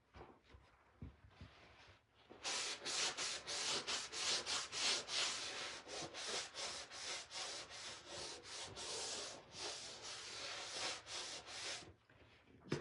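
Quick back-and-forth rubbing strokes on a wooden frame, about three a second, working off the dark wax at its edges. The strokes start a couple of seconds in and stop shortly before the end.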